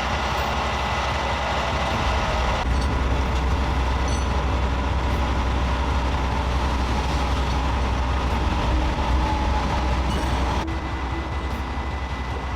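Steady heavy-vehicle rumble and road noise with a strong low drone underneath, fading near the end.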